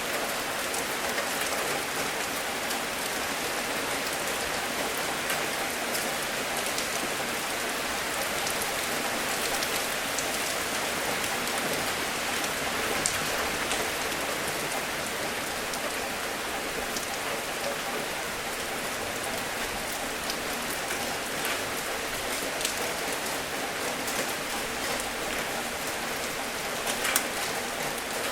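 Steady rain falling, with single drops ticking through it and a few sharper drips standing out, one cluster louder near the end.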